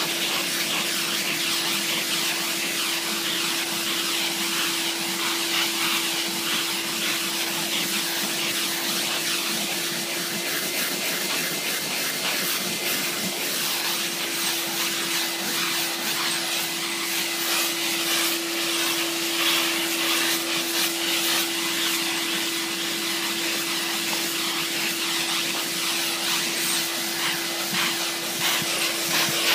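Car-cleaning machine running steadily: an even hiss with a constant hum underneath that does not change throughout.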